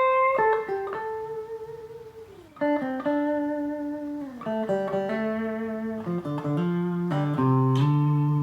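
Riggio Tango electric guitar played clean through a Quilter amp with no pedals: a slow phrase of single notes, several sliding down in pitch, that steps lower through overlapping notes and ends on a low chord left ringing.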